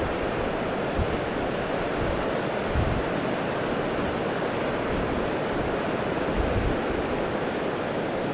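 Pacific Ocean surf washing steadily onto the beach, with wind gusting on the microphone a few times.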